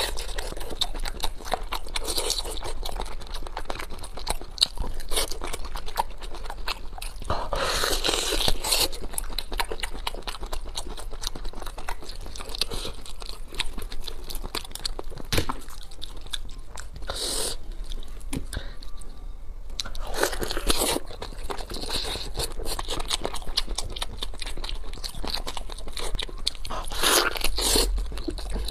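Close-miked biting and chewing of braised pork knuckle, a steady run of mouth sounds with a few louder bursts scattered through.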